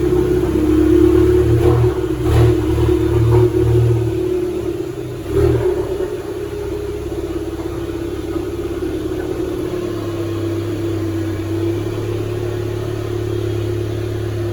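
An engine running steadily, with several short surges in the first six seconds before it settles to an even drone.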